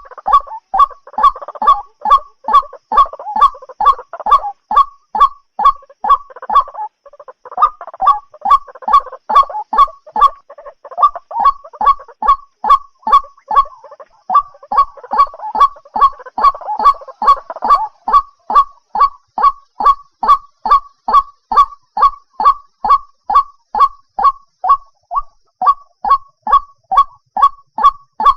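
White-breasted waterhen calling: a loud, repeated croaking note about twice a second. Rougher, jumbled calling is layered over it in three stretches during the first two-thirds.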